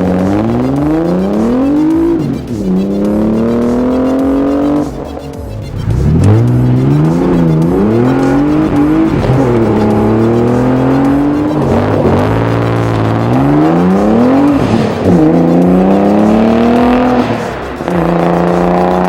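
Nissan 300ZX's V6 through an aftermarket PG exhaust, accelerating repeatedly: the revs climb, drop back at each shift, and climb again, several times over. It settles to a steady note near the end.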